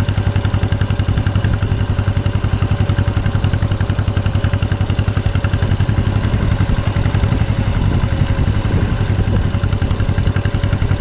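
Small farm tractor's engine running steadily as the tractor is driven, with a fast, even pulsing beat.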